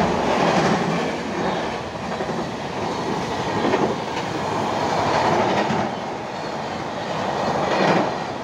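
Passenger train coaches running over a short railway bridge overhead: a steady loud rumble of wheels on track, swelling and easing several times as the coaches pass.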